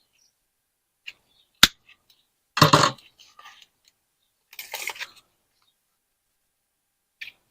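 Wire cutters snipping 14-gauge galvanized wire at an angle: one sharp snap about a second and a half in. Two short, duller bursts of handling noise follow, and there is a faint click near the end.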